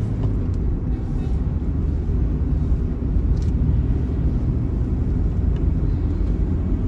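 Steady low engine and road rumble of a moving intercity bus, heard from inside the cabin at highway speed.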